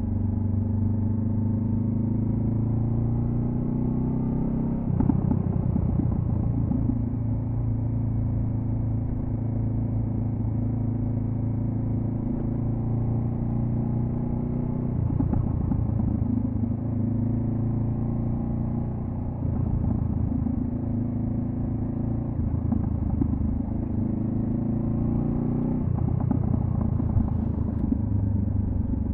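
2014 Honda CB500F's parallel-twin engine through a Delkevic carbon-fibre slip-on exhaust, accelerating on the road. Its pitch climbs steadily in each gear and drops at upshifts about five, fifteen, nineteen and twenty-six seconds in.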